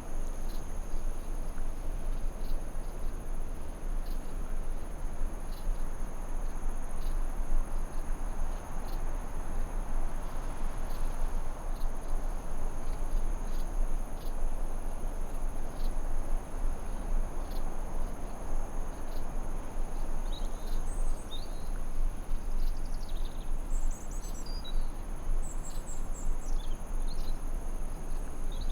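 Forest ambience: crickets trilling steadily, high-pitched, over an even rushing noise, with faint ticks about every second and a half. Small birds chirp in short phrases over the last third.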